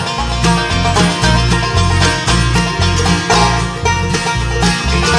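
Live bluegrass band playing instrumentally, banjo rolls to the fore over guitar and a steady bass beat.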